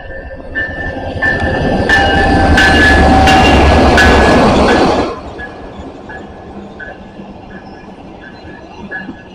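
An Amtrak passenger train rushing past close by, loudest for a few seconds, then cutting off suddenly about five seconds in as the last car goes by. A railroad crossing bell dings steadily, about one or two strokes a second.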